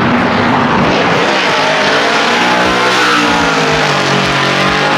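Drift cars running past at close range: loud, high-revving race engines with tyre noise, the engine note dipping about halfway through and then climbing again.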